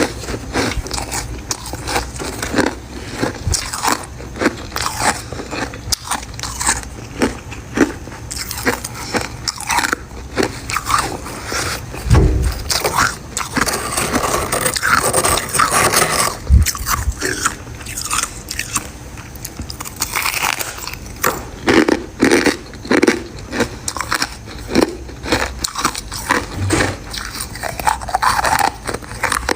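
Close-up crunching of freezer frost ice being bitten and chewed, dense irregular crackles and crunches one after another.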